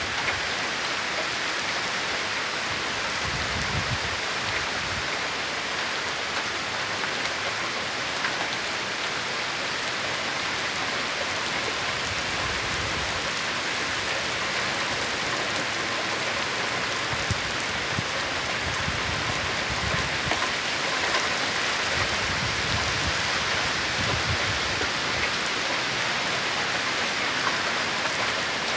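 Torrential rain pouring down in a steady, dense hiss. Several times, low rumbling gusts of strong wind swell in under it.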